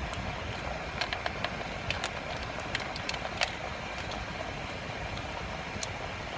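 Close-up mouth sounds of a woman chewing a bite of raspberry-filled pastry: wet smacks and sharp clicks, several between about one and three and a half seconds in, the loudest near the middle. Underneath is a steady low rumble of the car cabin she sits in.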